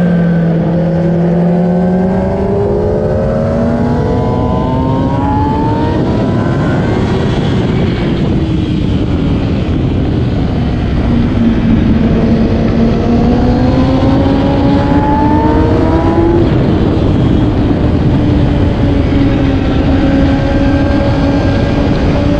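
2008 Kawasaki ZX-10R's 998 cc inline-four engine pulling through the gears, its pitch climbing slowly twice and then holding steady, under a constant rush of noise.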